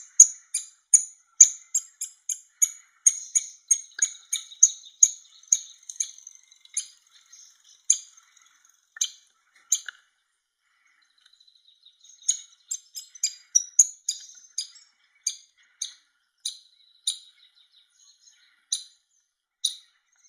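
Woodpecker chick's high-pitched begging calls, a rapid run of short chirps about three a second that the hungry nestling gives while being fed. The calls pause for a couple of seconds about halfway, then start again more sparsely.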